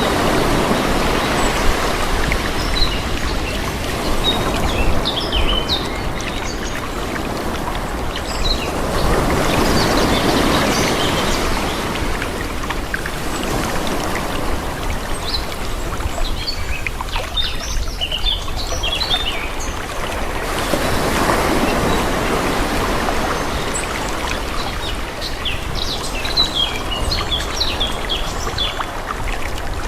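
Calm sea: gentle waves washing in and drawing back, swelling about every five to six seconds, with small birds chirping over them.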